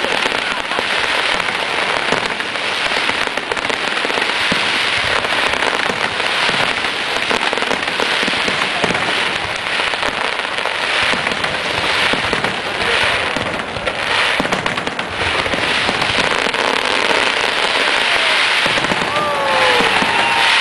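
Fireworks finale barrage: a dense, continuous crackle of rapid overlapping bangs and firecracker reports, the closing traca of a pyrotechnic display.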